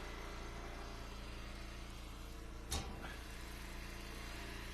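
Log splitter's engine running steadily. One sharp knock about two-thirds of the way through.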